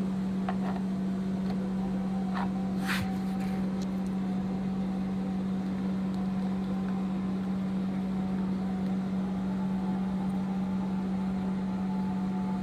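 A steady low hum with one strong tone runs throughout, over a few faint metallic clicks in the first three seconds as a 10 mm spanner works the bolt of a car door-lock cylinder.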